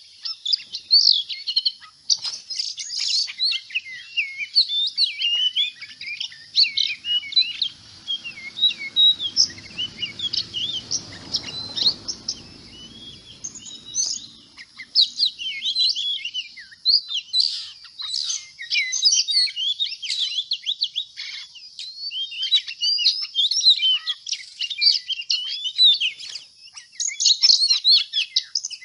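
Many small birds chirping continuously in a dense chorus of short, quick, high calls. A faint low rumble runs underneath through the middle.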